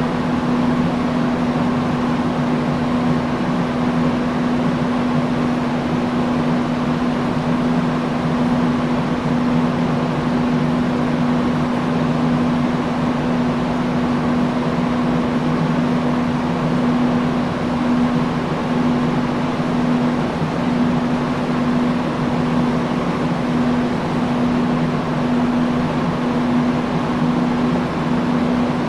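Industrial fan running steadily: an even rush of moving air over a constant motor hum.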